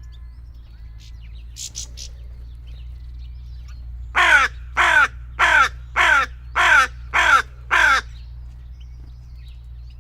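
A crow cawing seven times in a steady series, each caw short and falling in pitch. These are clear, ordinary calls rather than choking sounds.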